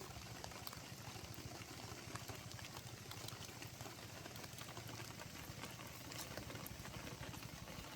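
Engine oil being poured into a tractor engine's crankcase: a faint, steady pour.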